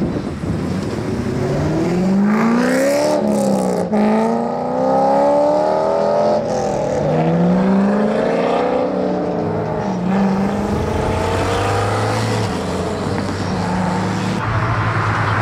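Ferrari engines revving, the pitch climbing and dropping back several times, with a steady lower engine note running under it in the second half.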